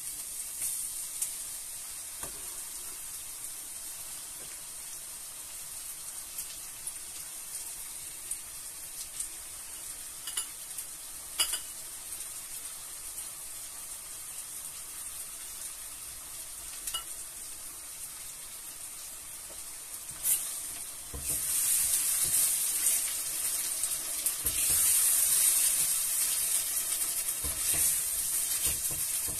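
Onion and garlic sofrito sizzling in oil in a frying pan, with a few sharp clicks of a utensil against the pan. About two-thirds of the way through, the sizzling grows much louder and stays loud.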